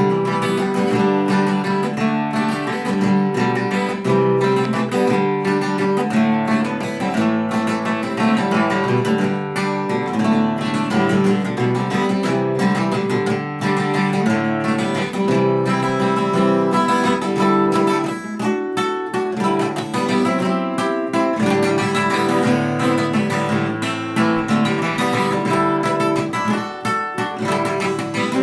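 Acoustic guitar strummed in a steady rhythm, playing an instrumental break between sung verses of a folk song.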